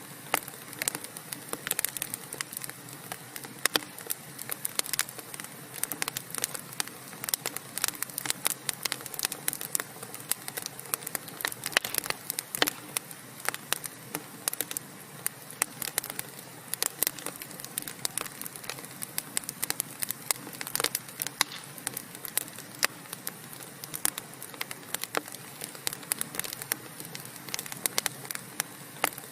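Burning logs crackling in a fireplace: many sharp, irregular pops and snaps, several a second, over a soft steady hiss.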